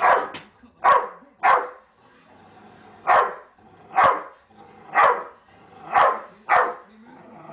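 Dog barking repeatedly: about eight short, sharp barks, three quick ones, a pause of over a second, then five more spaced about a second apart.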